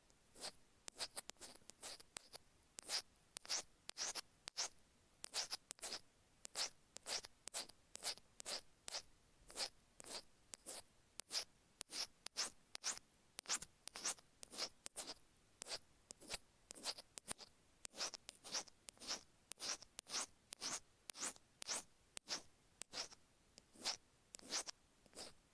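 Stainless steel ear pick scraping the rough, grooved grille of an iPhone earphone microphone. Short gritty strokes come about two to three times a second.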